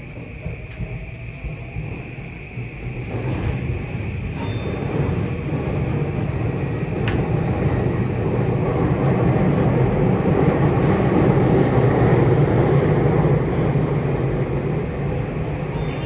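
Tokyu 3020 series electric train running on the rails, growing louder over the first several seconds and staying loud, then easing a little near the end.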